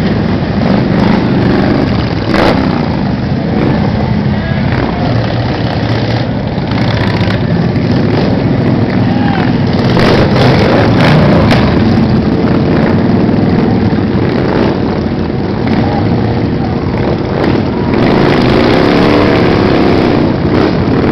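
A stream of motorcycles riding past, their engines running loud and steady without a break, with some engines rising and falling in pitch near the end.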